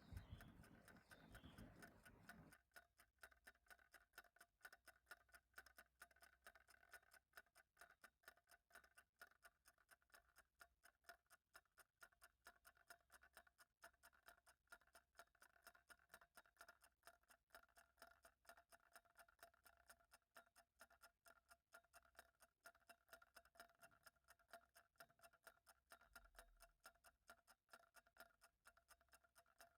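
Faint clock ticking steadily, with a faint steady hum under it. A low rumble stops about two seconds in.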